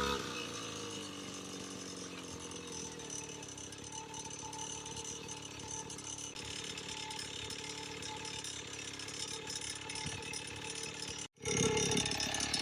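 Small dirt bike engine idling with a fast mechanical ticking rattle. The sound drops out for a moment near the end and comes back louder.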